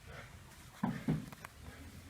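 Two dull knocks about a second in, then a couple of light clicks: tools being handled on the engine's valve train during a valve clearance adjustment.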